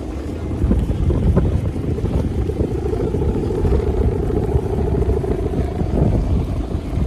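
Strong wind buffeting the microphone: a loud, unsteady low rumble throughout. A steady hum rises out of it for a few seconds in the middle.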